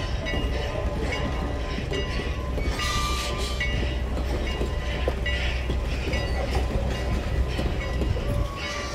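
Passenger coaches rolling past at a grade crossing, with a steady low rumble from the wheels on the rails. The crossing signal's bell rings rapidly in quick repeated dings during the first couple of seconds.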